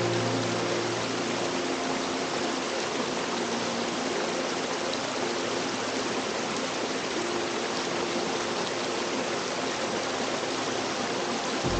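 Brook waterfall cascading: a steady, even rush of falling and splashing water.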